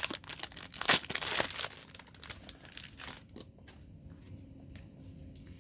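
Foil booster pack wrapper being torn open and crinkled by hand, with a dense burst of crinkling about a second in, then fainter rustling.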